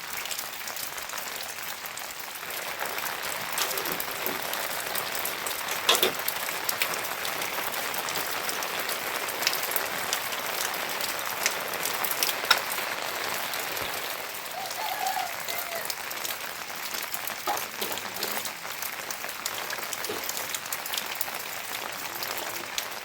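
Steady heavy rain, a dense patter of drops with a few louder single hits.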